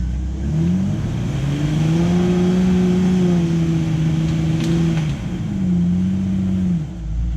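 Jeep engine revving up and holding high revs under load while crawling over rocks. It eases off about five seconds in, revs up again and drops back near the end. A single sharp click comes a little past halfway.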